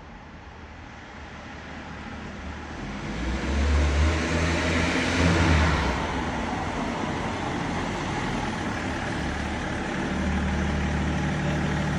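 BMW 530 (E39) accelerating hard through an enclosed car park. The engine and exhaust build over the first few seconds to their loudest between about three and a half and six seconds in, then run on at a steadier, slightly lower level.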